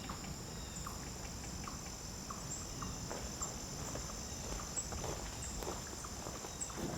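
Steady high-pitched drone of insects in woodland, with soft footsteps on the forest floor underneath.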